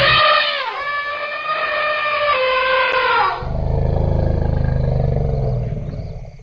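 Elephant trumpeting: a long, high call that breaks and slides down in pitch, followed by a low rumble of about three seconds that fades away.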